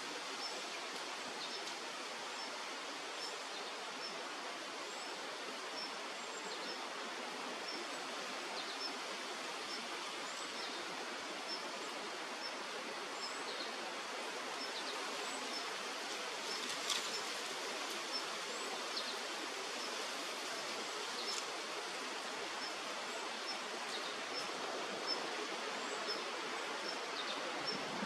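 Steady rushing of river water, with faint, short, high chirps of small birds repeating every second or so.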